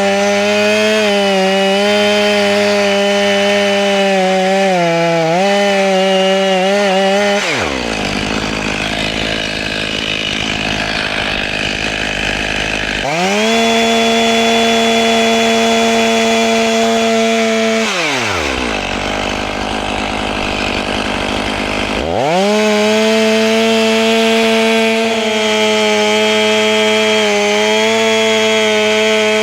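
Two-stroke chainsaw cutting into a tamarack tree, its pitch wavering under load. About seven seconds in it drops to idle, revs back up and holds steady, drops to idle again, then goes back to cutting with its pitch wavering.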